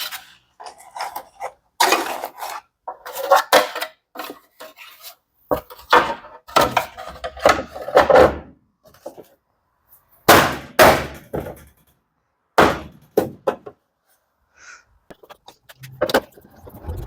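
Irregular knocks, clatter and scrapes of washing machine panels and parts being handled and fitted back together.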